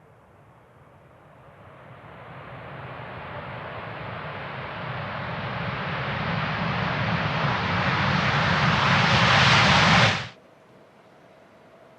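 Jet airliner engines roaring, growing steadily louder for about ten seconds, then cutting off abruptly.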